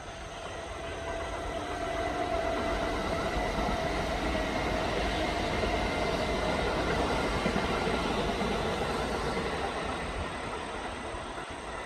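A Kintetsu electric train passing: the rumble of its wheels on the track builds up, holds for several seconds, then fades away near the end. A steady whine runs over the rumble.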